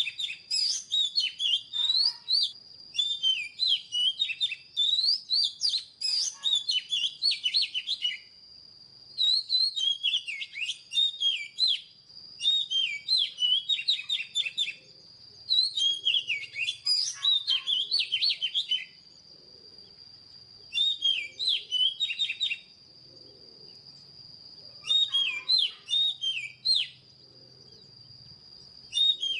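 Oriental magpie-robin singing: a string of varied, quick whistled phrases of a few seconds each, separated by short pauses, over a steady high-pitched tone.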